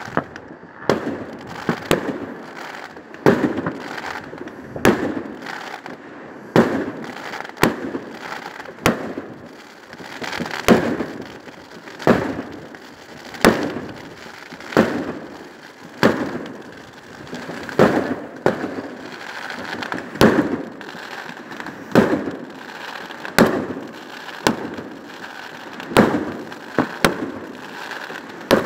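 Aerial firework shells fired one after another, a sharp bang about three times every four seconds, each followed by a brief crackle, with a steady crackling hiss between the shots.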